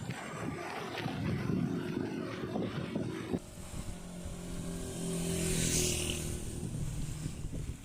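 A motor vehicle passes the moving bicycle: a steady engine hum comes in a few seconds in, and a rising hiss of tyres peaks near the end before fading. Before it there is uneven rumble of wind and road noise.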